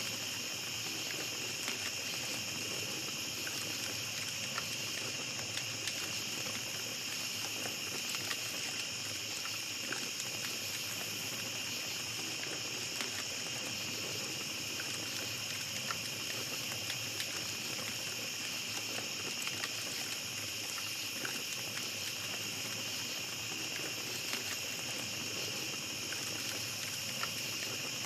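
A steady high-pitched chorus of night insects, with the scattered crackles and small pops of a campfire throughout.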